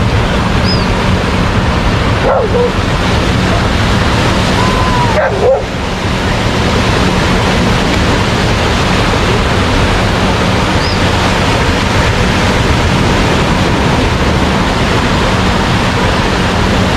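Steady rush of ocean surf with short dog yips or barks, about two seconds in and again around five seconds in.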